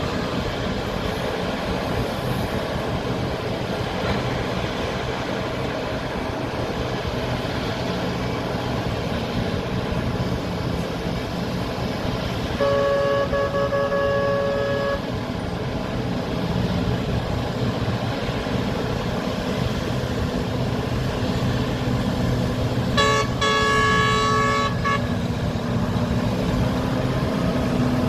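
Heavy mining excavators and haul trucks running, a steady low diesel drone. A horn gives one long blast about halfway through and a quick series of short toots near the end.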